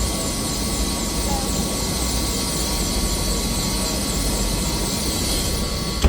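Bell helicopter's turbine engine running with the rotor turning: a steady whine over a low rumble, with a faint regular pulsing in the high hiss. A single sharp click near the end.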